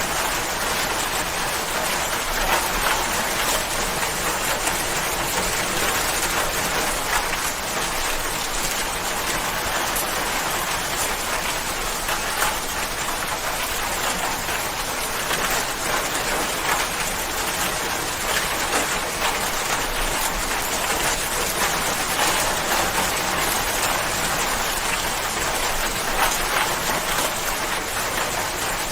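Steady rain falling, a dense hiss of drops with fine close patter throughout.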